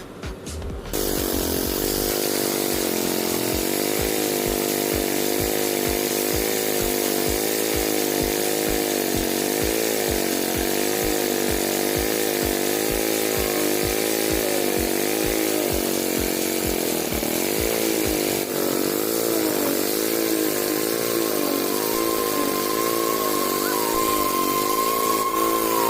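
Small engine of concrete slab-casting machinery starting up about a second in and running steadily, its pitch wavering up and down as the load changes.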